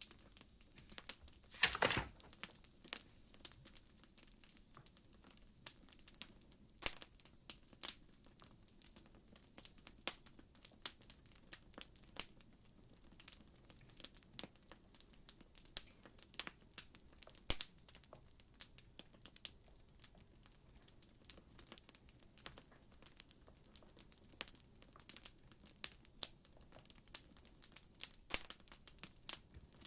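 Crackling fire: irregular sharp pops and snaps of burning wood over a soft low hiss, with a louder burst of crackling about two seconds in.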